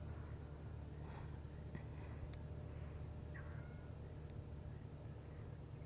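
Faint, steady, high-pitched trilling of insects in the evening, over a low background hum, with a couple of short high chirps.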